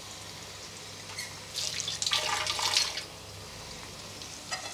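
Cubed potatoes frying in oil in a covered pan: a low steady sizzle, with a louder spell of hissing about two seconds in.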